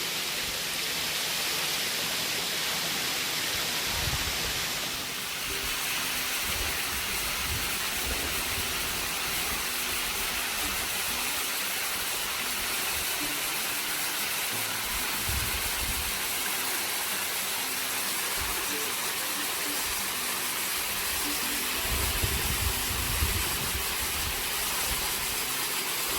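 Steady rush of a waterfall's falling water, a thin low-season flow, with a few brief low rumbles.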